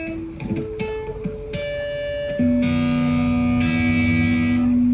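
Electric guitar played through an amp: a few short single notes, then a louder chord held and left ringing about two and a half seconds in.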